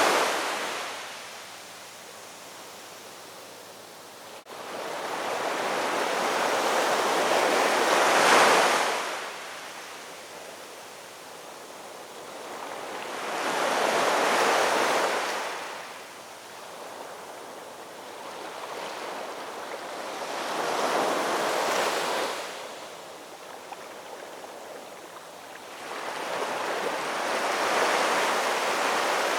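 Ocean waves breaking on a shore, each wave surging up and washing back about every six to seven seconds.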